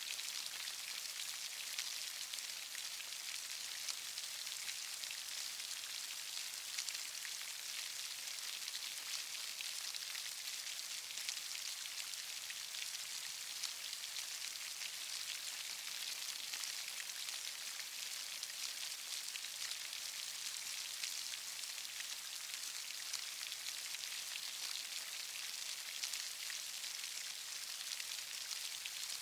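Steady rain falling, a continuous hiss of many fine drop ticks with no letup.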